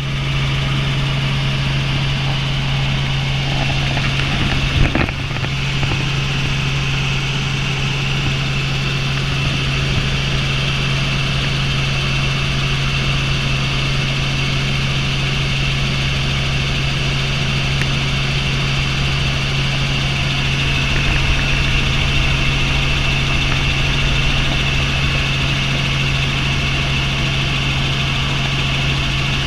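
Helicopter in flight heard from inside the cabin: steady drone of rotor and engine with a constant low hum and a higher whine, and one brief knock about five seconds in.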